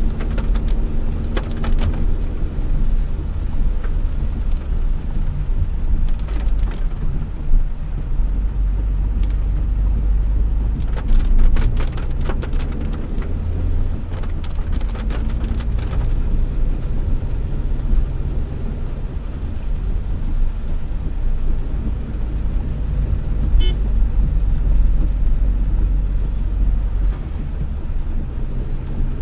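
Honda Elevate driving on a wet road in heavy rain: a steady low rumble of engine and tyres, with rain hitting the car in spells of sharp ticks.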